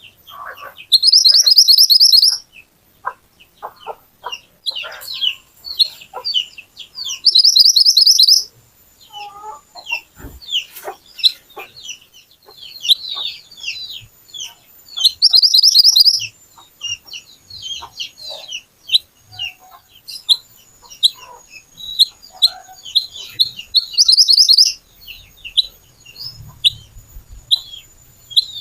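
Mantenan (kuniran) songbird singing: loud, very fast high trills repeated about every eight seconds, with many short sharp chirps in between.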